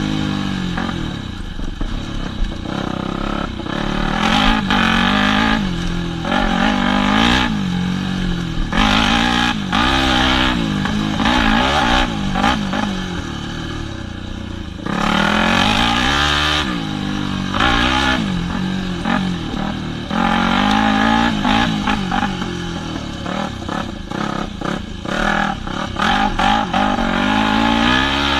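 Yamaha WR250F single-cylinder four-stroke dirt bike engine revving up and down again and again as the throttle is opened and closed through gear changes, with clattering knocks over the rough trail.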